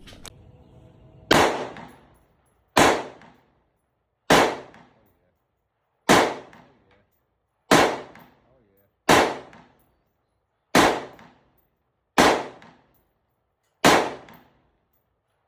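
Gunshots: nine single shots, evenly paced about a second and a half apart, each a sharp crack with a short fading tail.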